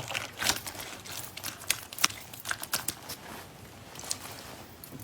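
Slime being pressed and worked by hand, giving a dense run of irregular sticky clicks and crackles; it cuts off suddenly at the end.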